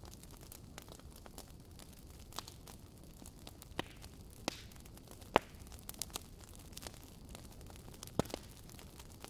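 Wood fire burning in a fireplace: a low steady rush with scattered sharp crackles and pops, the loudest pop a little past halfway and another strong one near the end.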